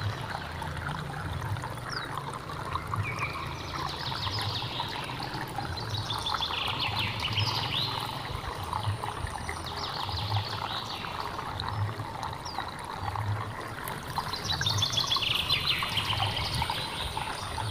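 Small stream trickling and gurgling over rocks, with wild birds singing repeated phrases above it and a rapid trill near the end.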